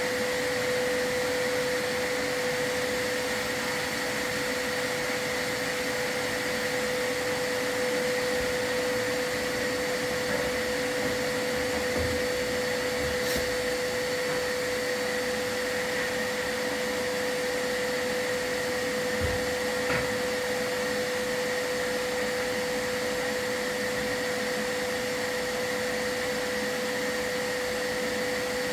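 Vacuum running steadily with a high, even whine, as used to draw off soot while sweeping a fireplace; a few faint knocks come through about halfway.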